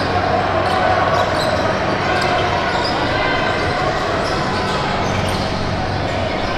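Basketball game in a gym: a ball bouncing on the court over a steady din of players and spectators echoing in the hall.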